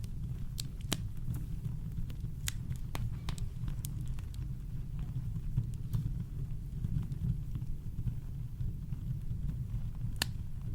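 Campfire crackling: scattered sharp pops and snaps, a few louder ones standing out, over a steady low rumble of brown noise.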